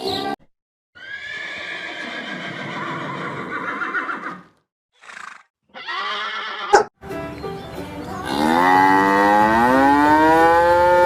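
Farm animal calls: a horse whinnying, then a short sharp click, then a long call from a farm animal that rises in pitch and then holds.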